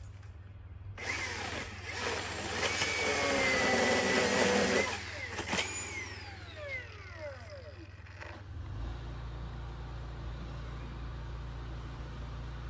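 Milwaukee M18 cordless chainsaw: the electric motor and chain run at full speed for about four seconds, then the trigger is released and the motor winds down with a falling whine.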